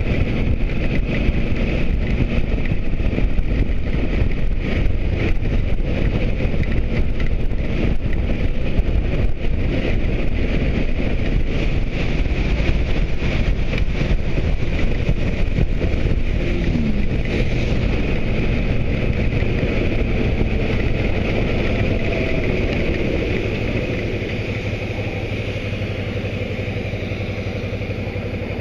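Motorcycle on the move: wind rushing over the microphone above a steady engine note. A short drop in engine pitch comes about midway. In the last few seconds the wind eases and the engine sounds more clearly as the bike slows.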